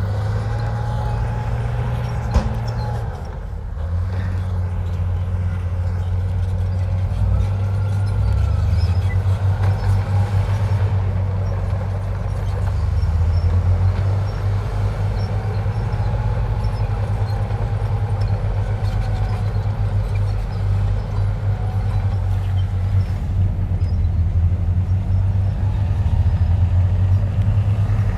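Heavy diesel engine of earthmoving machinery running hard, a deep rumble that swells and eases as the machine works, with a faint rising and falling whine above it. One sharp clank comes about two seconds in.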